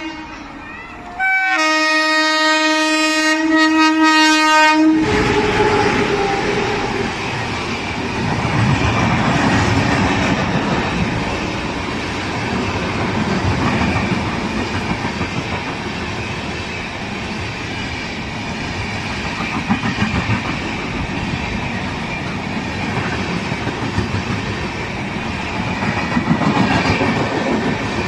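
Indian Railways electric locomotive sounding a single horn blast of about four seconds, starting about a second in. Then its express train of red LHB coaches runs through the station at speed, a loud, steady rush of wheels on rail with clatter from the passing coaches.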